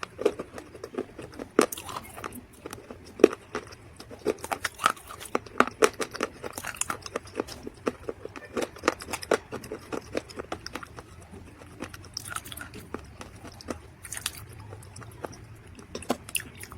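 Mud crunching up close: a quick, uneven run of sharp crunches and crackles that thins out to scattered ones in the last few seconds.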